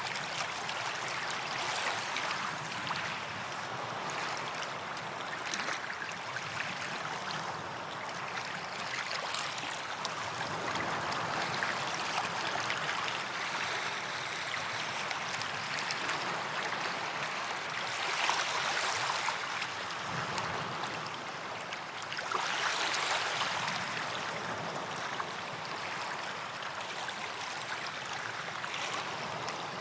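Gentle sea waves washing onto a beach: a steady wash of water that swells louder twice, a little past the middle.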